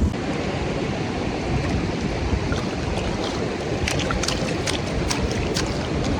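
Steady rush of seaside wind and surf, with a few short, faint ticks about four to five and a half seconds in.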